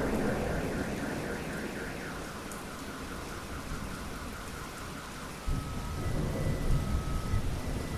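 Steady rain falling during a thunderstorm. A roll of thunder dies away over the first couple of seconds, and a new low rumble of thunder starts suddenly about five and a half seconds in, surging a few times.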